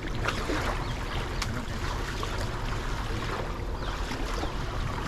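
Steady outdoor rushing noise of water and wind, with a low rumble on the microphone and a few faint clicks and knocks.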